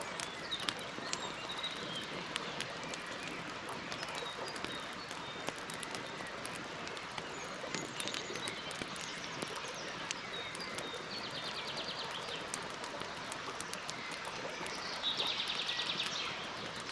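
Campfire crackling with frequent small pops and snaps over a steady hiss, with birds chirping. A fast trill comes twice, briefly near the middle and louder near the end.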